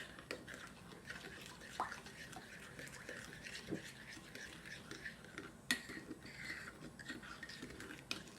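Faint, soft scraping of a spoon stirring yeast, sugar and warm water in a bowl, with a couple of light knocks.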